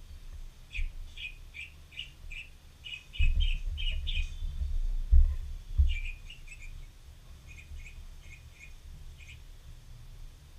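A small bird chirping in two runs of short, high chirps, about three a second. In the middle come low thumps and rumble, the loudest sound, like knocks against the desk or microphone.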